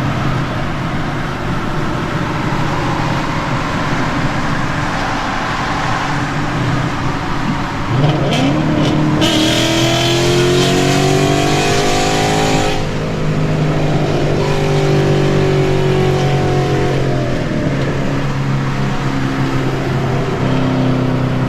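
2013 Ford Mustang GT's 5.0 V8 with BBK long-tube headers and Roush axle-back mufflers, heard from the driver's seat. It runs steadily, then pulls hard from about eight seconds in with its pitch rising, drops suddenly on a shift about five seconds later, and makes a shorter pull before settling back.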